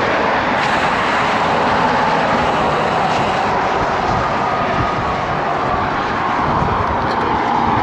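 Strong wind rushing and buffeting over the microphone of a camera on a moving bicycle, riding into a crosswind from the front right, with steady road and traffic noise underneath.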